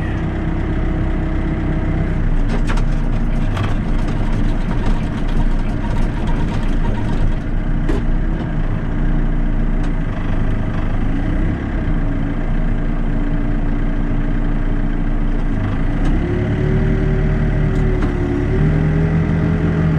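Backhoe's diesel engine running steadily, its pitch stepping up about 16 seconds in and again near the end as it is throttled up.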